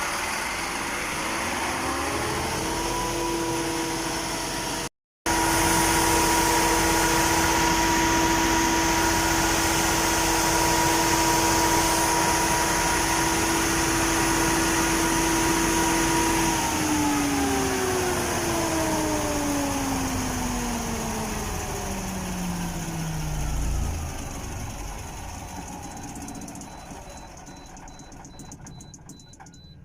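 MTU diesel generator engine with its whine rising as it comes up to speed, running steadily, then winding down in pitch over several seconds once shut off. A low thump comes as it runs down, and the sound fades near the end.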